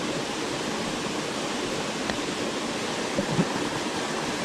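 Waterfall rushing steadily, with a couple of soft knocks about two and three seconds in.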